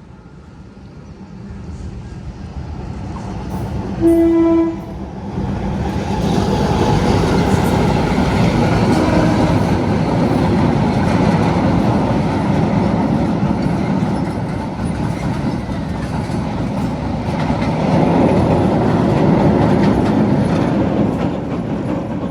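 A train passing close by: a rumble that builds over the first few seconds, one short horn blast about four seconds in, then the steady loud rumble of the passing carriages, which eases near the end.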